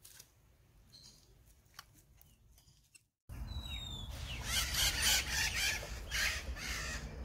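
Birds chirping: a couple of short falling chirps soon after a sudden rise in level about three seconds in, among repeated bursts of hissing noise. Before that it is quiet apart from a few faint clicks.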